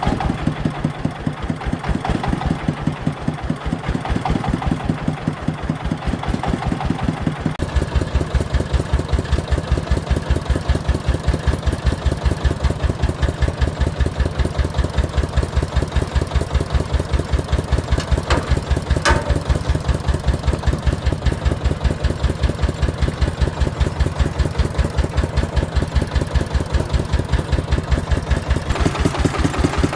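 Engine of a farm vehicle running steadily with an even, rapid chugging. About seven seconds in, its low throb grows stronger and stays so. A single sharp click sounds about two-thirds of the way through.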